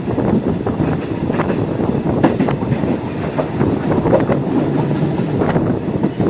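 Passenger train running along the track: a steady rumble with irregular clicks and knocks from the wheels over the rails.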